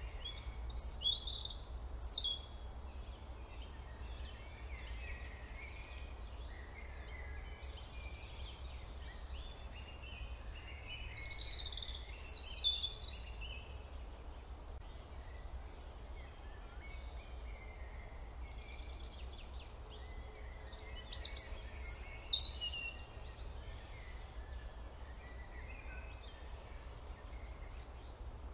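Birds singing: three loud bursts of quick chirping phrases about ten seconds apart, over continuous soft twittering, with a low steady hum underneath.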